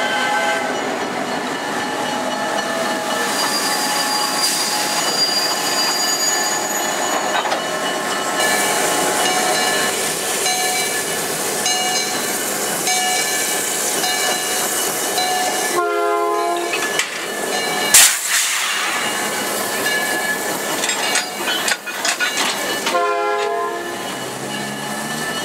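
A train running on the rails, with steady rolling and wheel noise. It sounds two short signal blasts, about two-thirds of the way through and again near the end, with a single sharp knock between them.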